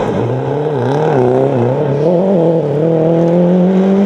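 Rally car engine at full working revs through a corner. Its pitch dips and rises several times with the throttle for about two seconds, then holds a steady, slowly climbing note as the car pulls away.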